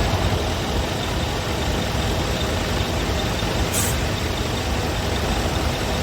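Scania P280 truck's 9-litre five-cylinder diesel idling steadily, with a short hiss of released air a little under four seconds in.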